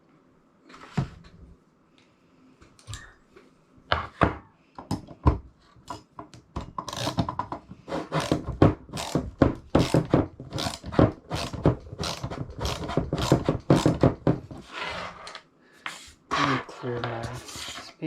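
Metal hardware and bolts clicking and clattering on a hard bare work surface during assembly, in a dense run of sharp knocks; it is loud enough that a mat is needed to soften it.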